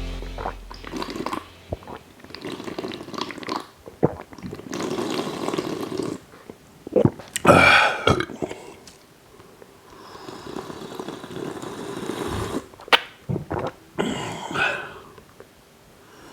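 Wet chewing and squelching from a mouth packed full of food, with breathing, and a loud strained groan or burp-like sound about halfway through.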